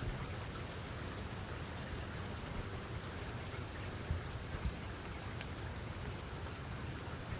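Steady rain falling, an even hiss with scattered drop ticks and a couple of low thumps a little past halfway.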